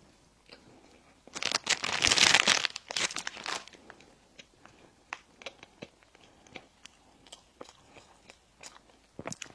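Close-up eating sounds of bread and pastries: a loud crackly crunching stretch of about two seconds beginning a second and a half in, then quiet chewing with scattered small clicks.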